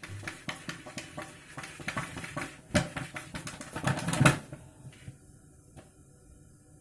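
A cat scrabbling about in a bucket: a quick run of scratches and knocks, the loudest about three and four seconds in, stopping about four and a half seconds in.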